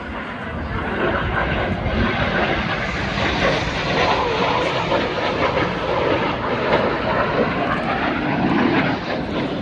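Red Arrows BAE Hawk jets flying over, a loud steady jet roar that swells over the first second. A faint whine falls in pitch near the end as the jets pass.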